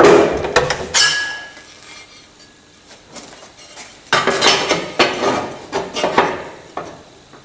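Metal parts and hand tools clinking and clanking as they are handled on a workbench. There is a sharp clank at the start and another about a second in, then a run of rattling clinks from about four to six seconds in.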